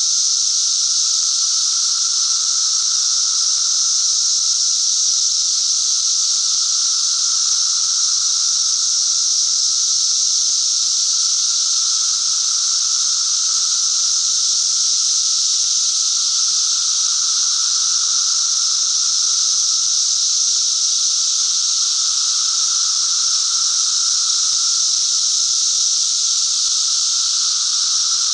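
Cicadas singing: a loud, continuous high buzzing drone with no breaks.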